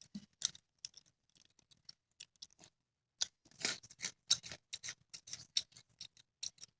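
Quiet, crisp clicks and crackles close to the microphone, scattered at first and coming thicker from about three seconds in.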